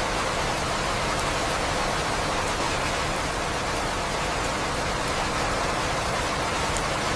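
Steady rain falling in an even hiss, with a few faint scattered ticks of drops.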